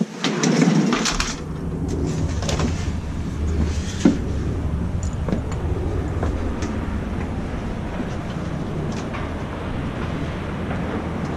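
A balcony door opens with a click and a clatter, then a steady low rumble of outdoor city noise.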